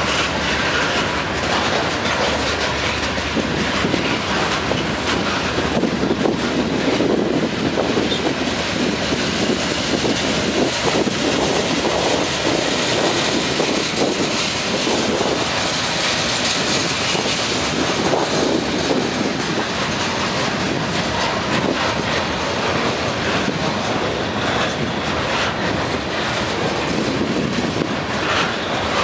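Freight train cars rolling past at close range: a steady, loud rumble of steel wheels on rail, with a clickety-clack as the wheels cross the rail joints.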